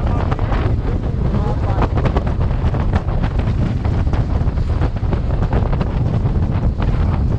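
Heavy wind buffeting the microphone on a sailboat under way, a steady low rumble with constant gusty crackle.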